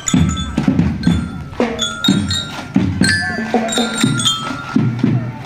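Drum band playing: drum strokes about twice a second under a ringing glockenspiel (bell-lyre) melody.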